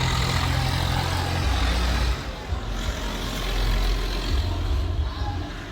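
A vehicle engine running with a steady low rumble, rising a little in level around the middle.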